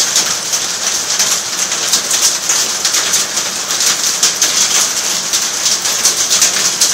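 Heavy rain falling steadily, a dense hiss with many sharp drop impacts close by.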